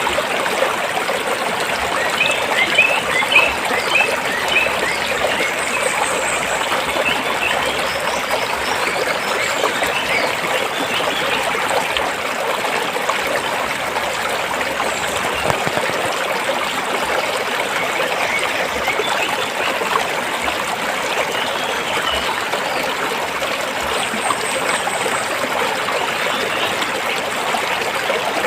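Forest stream flowing and trickling over rocks: a steady, even rush of water. A run of short bird chirps sounds over it in the first few seconds, and a few fainter ones come later.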